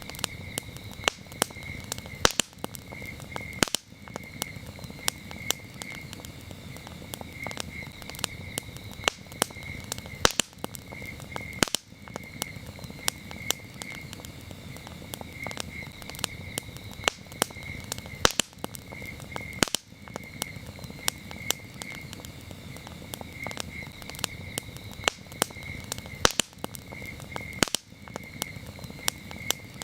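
Campfire crackling and popping, with frequent irregular sharp snaps over a steady low rustle of burning. Crickets chirp in repeated pulsed trills behind it.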